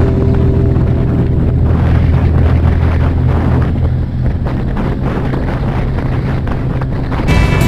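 Yamaha YXZ1000R side-by-side's three-cylinder engine running steadily, with wind buffeting the microphone. Music comes back in near the end.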